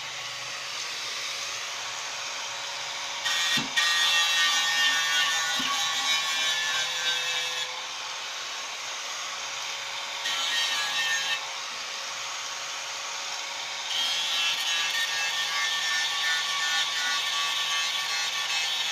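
A power tool runs steadily with a constant hum. Three times it bears on metal with a louder, harsh rubbing: for about four seconds starting a few seconds in, briefly around the middle, and again through the last few seconds. This is abrasive work on an old motorcycle fuel tank.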